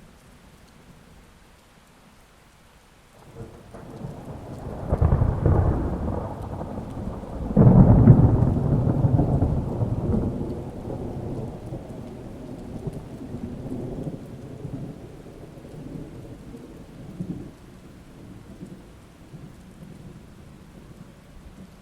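A thunder roll over steady rain. After a few seconds of rain alone, a low rumble builds into two heavy peaks, the second the loudest, then rolls away slowly while the rain goes on.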